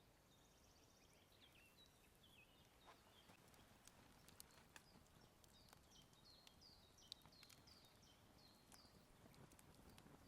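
Faint birdsong: a bird repeats short, falling chirps, with scattered light taps and clicks among them.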